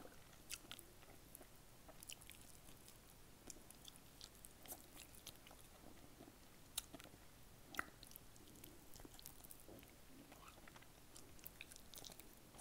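Faint, close-miked chewing of fried chicken: soft wet mouth sounds with many small clicks and crunches of the breading, two of them sharper a little past the middle.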